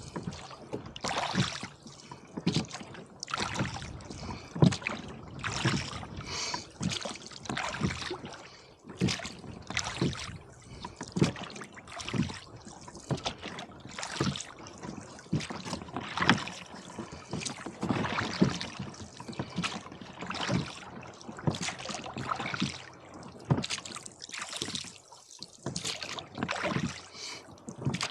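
Water splashing and slapping around a rowboat being rowed through wind-driven chop, in irregular splashes about one or two a second.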